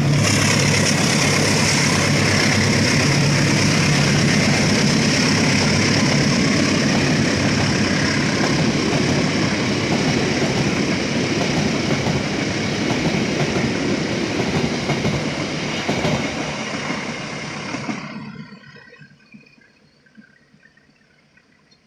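Train running past close by, its cars rolling along the rails with a loud, steady rumble and rattle; about eighteen seconds in, the sound falls away quickly to near quiet.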